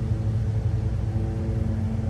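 Train running by with a steady low rumble and a few faint steady tones above it.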